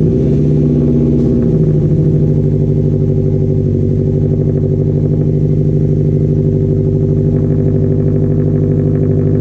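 Motorcycle engine idling steadily just after a cold start, a loud, even pulsing run.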